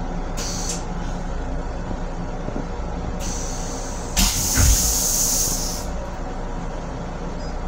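Steady running rumble of a Metro-North M7 electric railcar heard inside the car, broken by several sharp hisses. The loudest hiss comes about four seconds in and lasts nearly two seconds, with a couple of low thumps at its start.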